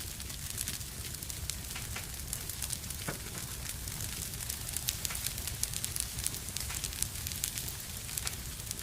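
Wood fire burning in a fireplace, crackling with many small irregular pops over a low steady rumble.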